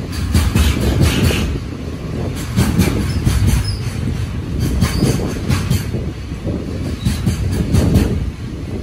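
Container wagons of a freight train passing close by at speed: a steady rumble of wheels on rail, with repeated clacks as the wheel sets run over rail joints.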